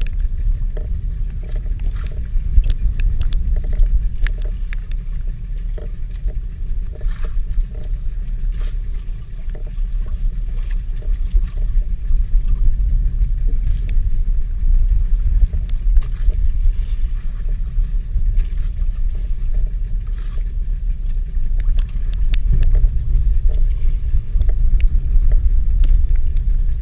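A steady low rumble aboard a small fishing boat at sea, with scattered light ticks and taps over it.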